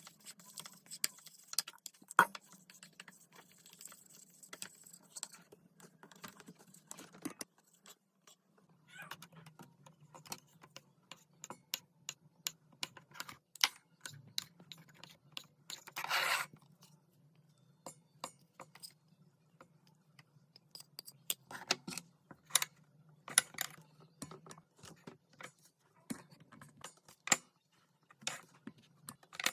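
Irregular small sharp clicks and taps, scattered unevenly, with a brief scraping rustle about halfway through, over a faint steady low hum.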